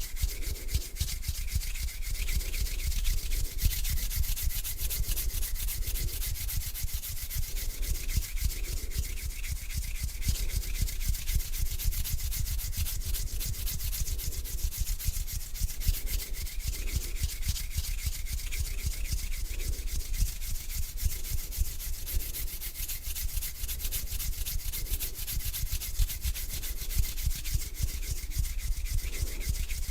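Hands rubbing together slowly, a continuous dry rustle with fine crackle and soft repeated swishes about once a second.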